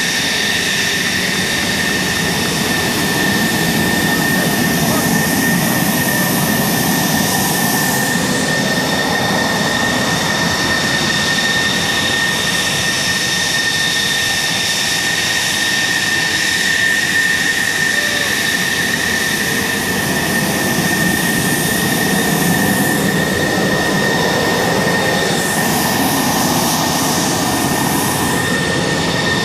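Military jet engine running with a steady high-pitched whine over a constant rush of noise.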